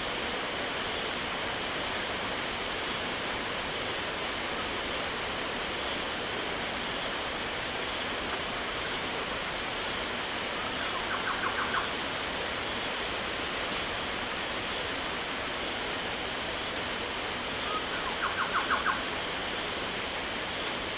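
A continuous high, fast-pulsing trill of night insects over a steady hiss of rain and rushing river water. Two brief rapid rattling calls come about eleven and nineteen seconds in.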